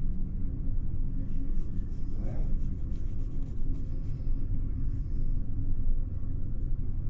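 Amtrak Empire Builder passenger train rolling along at speed, heard from inside a Superliner sleeper car as a steady low rumble.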